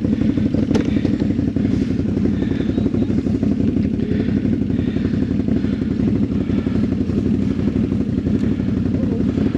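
ATV engine idling steadily, with a faint click about a second in.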